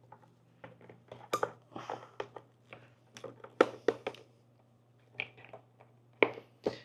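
A string of irregular sharp clicks and knocks, like parts and tools being handled during motorcycle work, over a faint, steady low hum.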